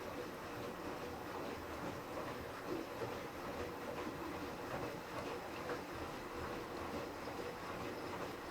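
Electrolux TRW 10 washing machine running with a steady mechanical rumble and a faint steady hum.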